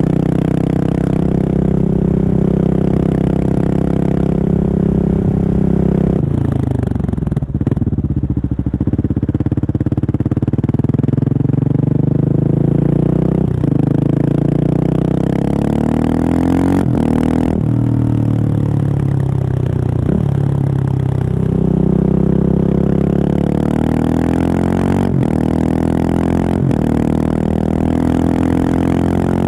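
Husqvarna 701's single-cylinder engine through a Remus exhaust with the dB killer removed, running under way. The pitch holds steady for about six seconds, then falls and rises again with the throttle, with several short breaks that fit gear changes.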